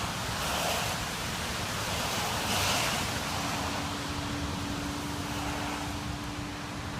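Steady rushing noise of wind and rain on an outdoor walk, with two louder swells in the first few seconds. A faint steady hum joins about three seconds in.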